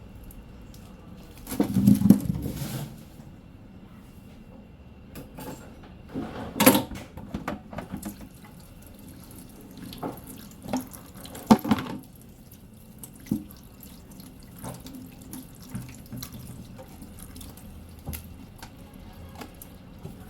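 Water from a kitchen tap splashing in a sink for about a second, about two seconds in, then scattered light knocks and clicks of kitchen handling.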